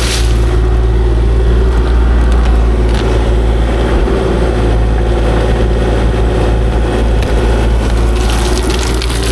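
Kubota KX040-4 mini excavator's diesel engine and hydraulics running with a steady drone, with some scraping and clattering, louder near the end.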